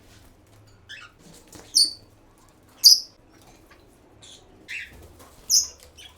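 A pet bird giving short, high-pitched chirps, about six in all, with three louder ones standing out.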